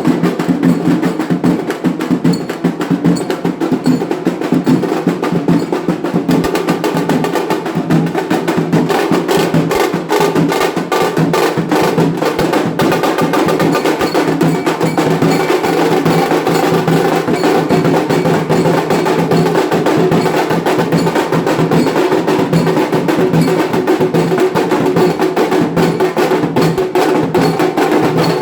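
Indian wedding band baaja playing: loud, fast, unbroken drumming over steady held tones.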